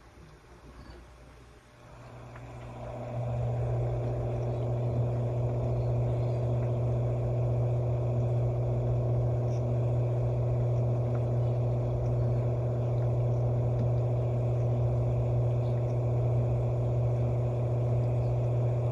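Panasonic NA-FA80H8 washing machine running: a motor hum starts about two seconds in, swells over a second or so, then holds steady.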